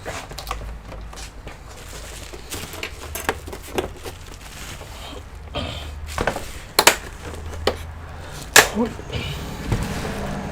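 Scattered clicks, taps and knocks of computer parts and tools being handled during disassembly, with two sharper clicks about seven and eight and a half seconds in.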